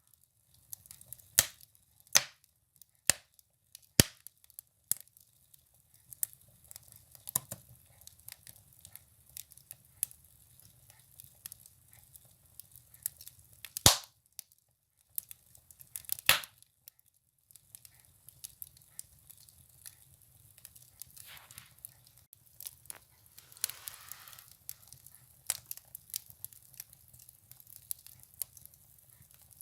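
Firewood burning in a wood stove, crackling with irregular sharp pops and snaps, a few of them much louder than the rest, over a soft hiss of the flames.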